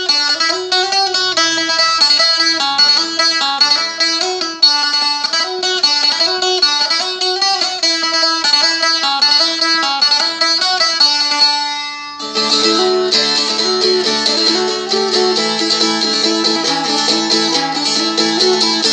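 Seagull Merlin, a four-string fretted dulcimer, playing a fast-paced jig: a quick picked melody over a ringing drone string. About twelve seconds in the sound thickens as more low strings ring under the melody.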